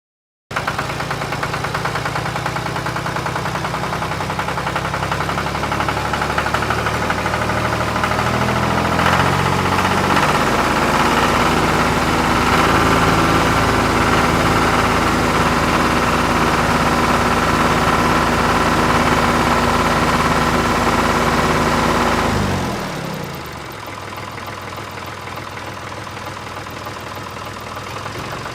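Tractor engine running steadily after a brief gap at the start, its pitch rising slightly about a third of the way through. Near the end it drops suddenly to a quieter, duller hum.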